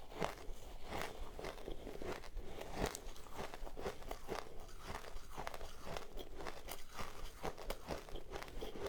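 Close-up biting and chewing of crunchy ice: a quick, irregular run of crunches, several a second.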